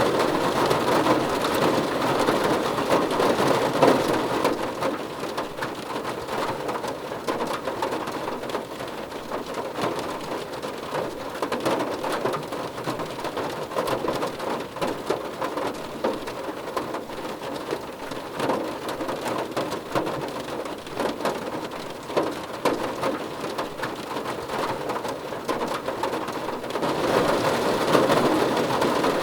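Rain drumming on a car roof as a dense patter of drops. It is heavier for the first few seconds, eases off, and picks up again near the end.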